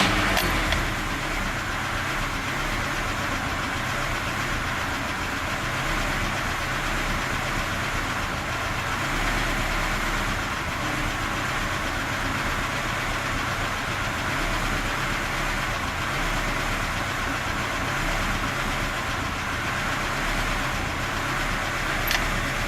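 VAZ 2106 four-cylinder petrol engine with an Ozon carburettor idling unevenly, its revs rising and falling by themselves every few seconds. This is an unstable, hunting idle that the owner cannot explain, with no one touching the throttle.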